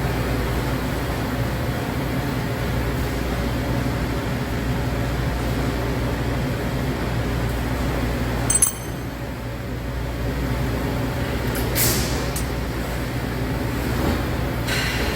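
Steady low mechanical hum, with one sharp ringing metallic clink about eight and a half seconds in and two brief knocks later.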